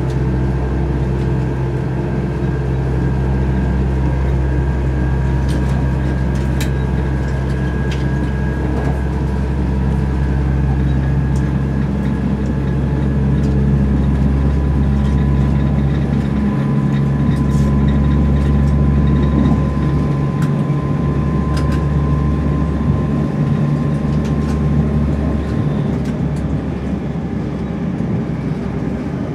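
Interior of a Class 170 Turbostar diesel multiple unit under way: the underfloor MTU six-cylinder diesel drones low and steady, with a high thin whine over it that grows stronger midway and fades near the end. The uploader is unsure what causes the whine.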